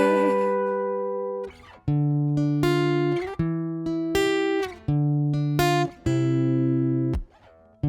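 Acoustic guitar playing an instrumental passage: a run of strummed chords, each struck sharply, left to ring for about a second and then stopped short, with a brief gap after the first chord and another near the end.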